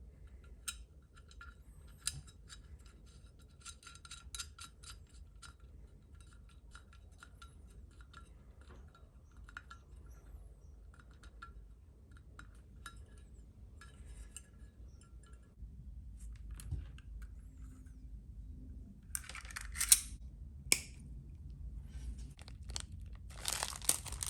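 Small hard parts of a 1/14-scale RC hydraulic excavator kit being handled during hand assembly: a string of light clicks and ticks, then two short rasping bursts near the end with a sharp click between them.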